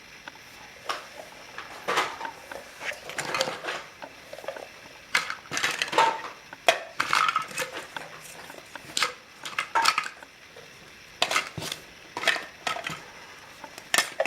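Irregular crunching, with clicks and clinks like dishes or cutlery being handled, coming every fraction of a second to a second.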